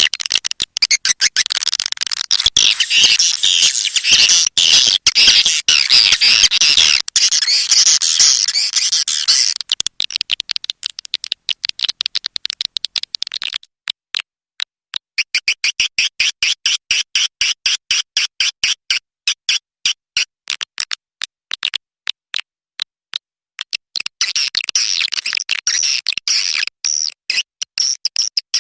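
Edible-nest swiftlet calls, the kind of call sound played in swiftlet houses to lure the birds: a dense, high-pitched chattering of rapid chirps. About halfway through it thins to a quick, even series of separate chirps, then turns dense again near the end.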